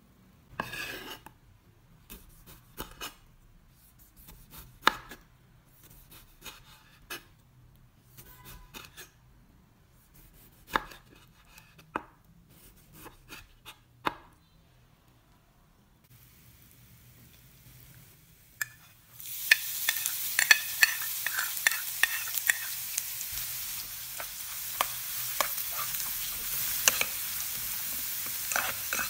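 Kitchen prep sounds: scattered knocks and taps of food being cut and handled on a cutting board, with pauses between them. About nineteen seconds in, food goes into hot oil and a steady frying sizzle with crackling pops sets in and carries on.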